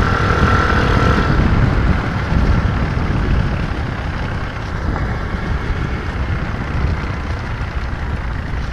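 Nitro Sky 125cc pit bike's single-cylinder four-stroke engine running while riding, under heavy wind rumble on the camera microphone. A higher engine tone stands out in the first second or so, then fades into the rumble.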